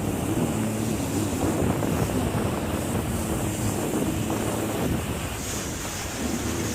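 Jet ski engine running under way, its pitch wavering up and down, with wind buffeting the microphone and water rushing past.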